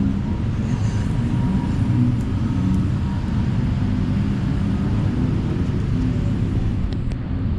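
City street traffic: motor vehicle engines running and passing close by in a steady low rumble.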